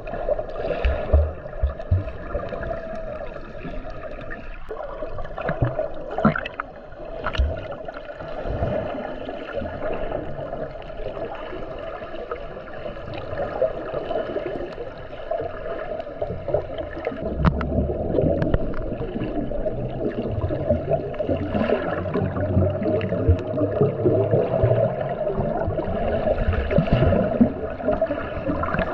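Sea water gurgling and sloshing around a camera held in the sea, over a steady hum, with scattered clicks and knocks. The rumble grows stronger about halfway through.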